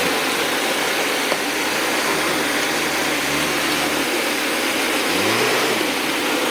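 Diesel engine of a JCB 3DX backhoe loader running steadily with a dense noisy hiss over it, its pitch rising and falling once about five seconds in.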